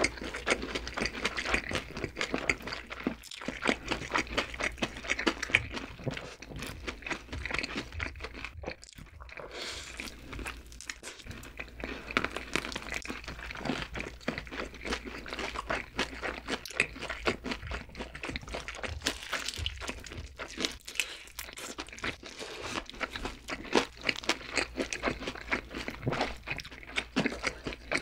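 Close-miked crunching and chewing of crispy Korean fried chicken, two people biting into and chewing the coated drumsticks: a dense, irregular stream of crisp crackles and crunches.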